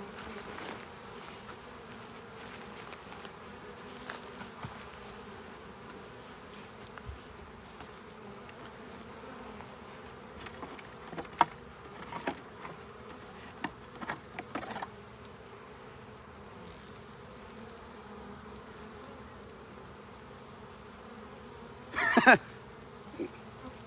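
Honey bee swarm buzzing steadily, a mass of bees clustered on the front of a hive. A few light clicks come in the middle, and a brief louder burst near the end.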